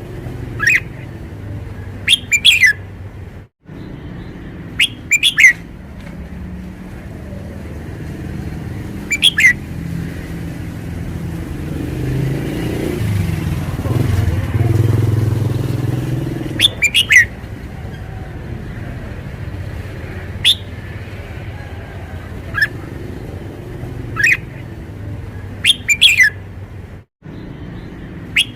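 Red-whiskered bulbul singing short, bright phrases every few seconds over a steady low rumble of traffic. A vehicle swells past about halfway through.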